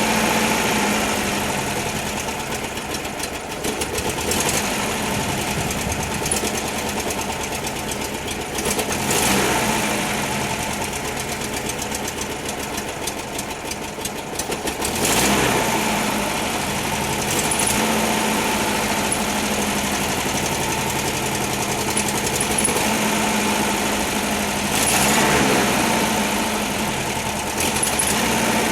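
1968 Volkswagen Type 3 Fastback's air-cooled flat-four engine running cold without chokes, getting louder for a moment a few times.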